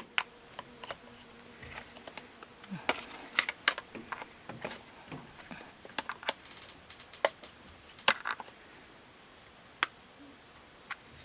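Irregular sharp clicks and knocks of plastic parts as a front-load washing machine's drain pump housing is pushed down and worked loose by hand.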